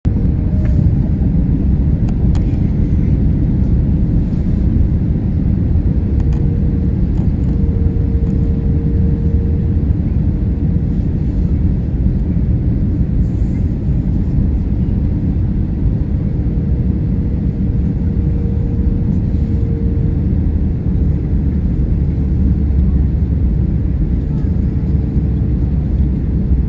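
Airliner on its landing approach: a steady, loud rumble of jet engines and airflow, with a faint wavering hum above it.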